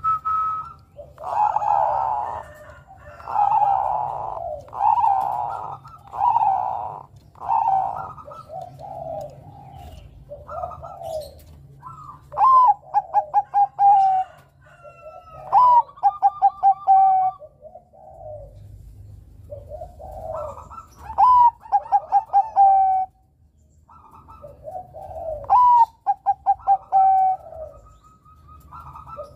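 Zebra dove (Bangkok-type perkutut) cooing: about five soft coos in a row, then several times the rapid stuttering notes that run into a long held note, the typical perkutut song. A steady low hum lies underneath.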